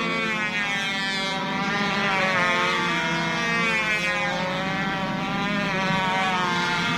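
Several radio-controlled model airplane engines buzzing at once, their pitches rising and falling and crossing as the planes swoop around each other.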